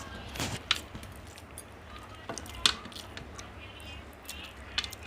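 People eating mutton biryani: chewing and wet mouth smacks, with a few sharp clicks scattered through, the loudest about a second in and near the middle, over a low steady hum.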